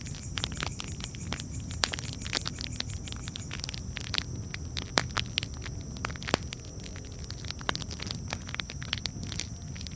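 Wood campfire crackling: irregular sharp pops and snaps, a few louder than the rest, over a steady low rumble of the burning fire.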